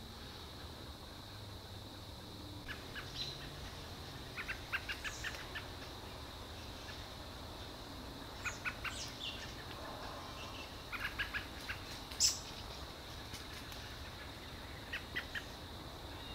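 Small songbirds calling in woodland at dawn: several quick series of short chirps, and one sharper, higher call about twelve seconds in.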